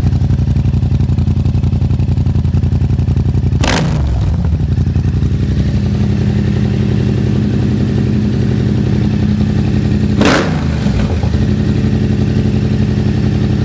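2016 Yamaha FZ-07's parallel-twin engine running steadily through an aftermarket Akrapovic-style slip-on exhaust welded onto the stock pipe. Two brief sharp noises come through about four and ten seconds in.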